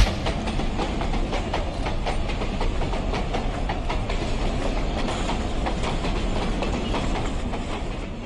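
Train running on the rails, a steady rumble with many sharp clicks from the wheels, fading out near the end.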